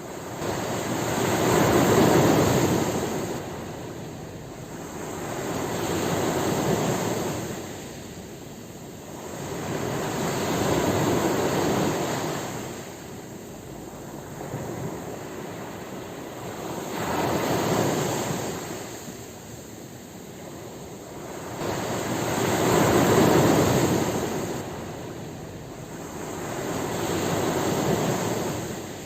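Ocean waves breaking on a shore, each wave a surge of rushing surf that swells and fades, about one every four to five seconds.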